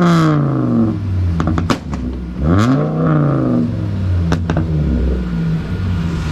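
Car engine revved twice, its pitch rising and falling each time, then settling to a steady idle. A few sharp cracks come between and after the revs.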